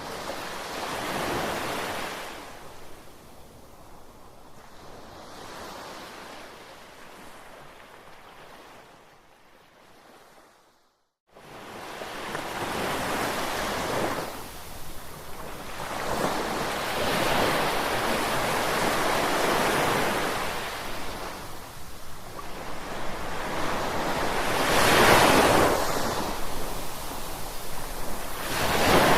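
Ocean waves breaking and washing ashore, swelling and fading every few seconds, softer at first and building to a loudest surge near the end. The sound cuts to silence for a moment near the middle.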